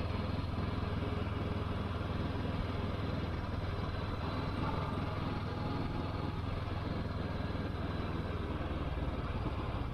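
Honda 500 cc motorcycle's parallel-twin engine running steadily under way, a constant low drone under a rush of wind and road noise.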